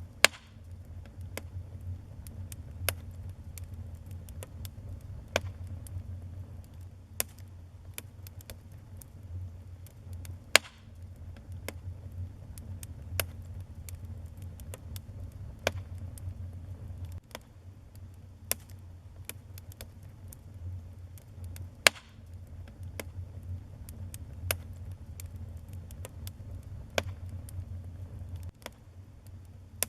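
Wood fire burning in a fireplace: scattered sharp crackles at uneven intervals over a steady low rumble, with a few much louder pops, three of them about ten seconds apart.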